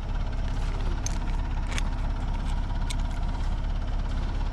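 Backhoe engine idling steadily, with a few light clicks from work on the stand.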